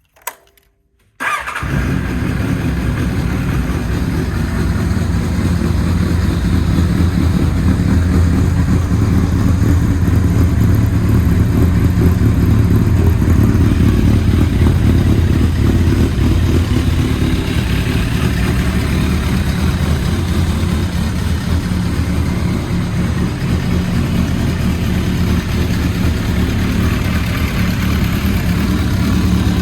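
1999 Kawasaki ZRX1100's inline-four engine starting: a brief crank, then it catches about a second in and runs steadily through a devil aftermarket full exhaust system.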